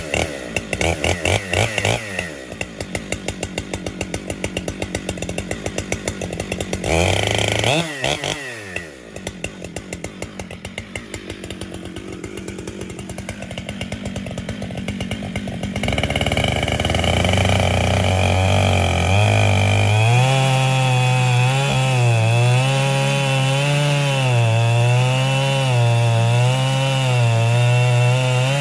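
Husqvarna 592XP two-stroke chainsaw on an Alaskan chainsaw mill, running at low revs with a brief rev about seven seconds in. About sixteen seconds in it is opened up to full throttle and held there, its pitch wavering as the bar cuts along the log.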